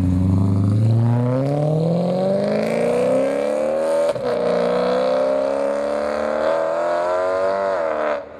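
BMW E92 M3's 4.0-litre V8 breathing through Fabspeed high-flow 200-cell sport catalytic converters and X-pipe, accelerating hard: the revs climb steadily, break for a quick upshift about four seconds in, then climb again before dropping off near the end.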